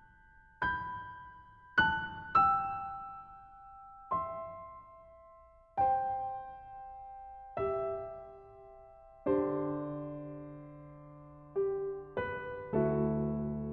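Slow, sparse piano music: single notes struck a second or two apart and left to ring and fade, building to fuller chords in the last few seconds.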